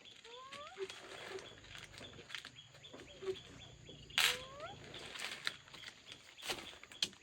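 A small pet animal giving a short upward-gliding squeak twice, about four seconds apart, among light clicks and rustling.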